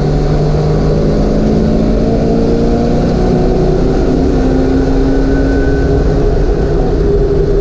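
1988 Ford Mustang's engine heard from inside the cabin, accelerating down a straight with its pitch climbing steadily, over wind and road noise.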